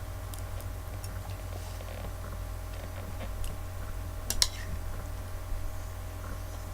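Steady low hum with scattered small clicks and taps, one sharper click about four seconds in.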